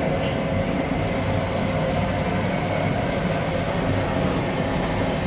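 Steady, loud rumbling noise with a faint hum, unbroken and without distinct knocks or clicks.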